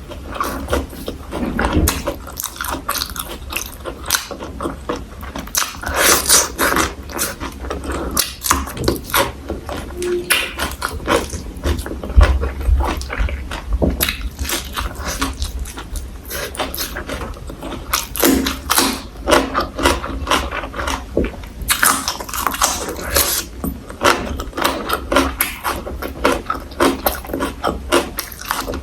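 Close-miked chewing and crunching of food, a dense run of irregular crisp crunches and mouth clicks.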